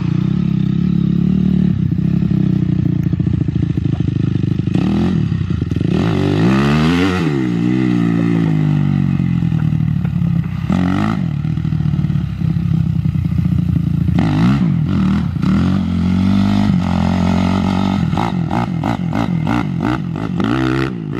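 Dirt bike engine running and being revved: the pitch swells up and falls back twice, then a quick run of short, sharp revs near the end.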